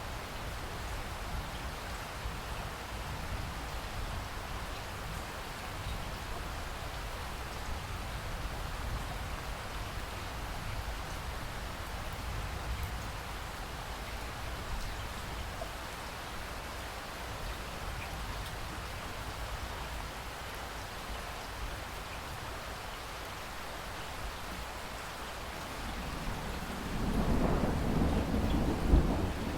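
Thunderstorm: steady rain falling with low rolling thunder, and a louder thunder rumble building near the end.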